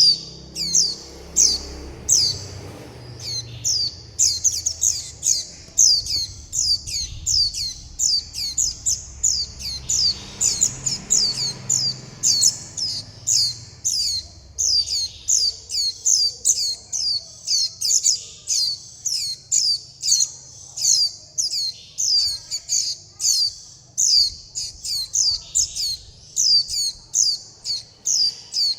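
Young white-eyes calling over and over with short, high, downward-slurred chirps, about two or three a second and without pause: begging and contact calls to the parent and flock. A faint low rumble lies under the first half.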